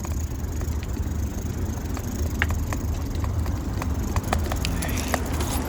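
Bicycle being ridden: a steady low rumble of wind on the microphone, with scattered light clicks and rattles from the bike.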